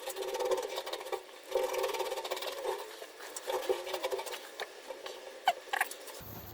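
Hands rubbing and working a small gasket and parts, in about three short bursts of scratchy rubbing with faint squeaks, as sealant is spread on the gasket; a few light clicks near the end.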